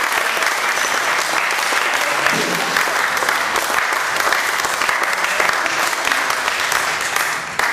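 Audience applauding after a song: many hands clapping in a dense, steady patter, dying away near the end.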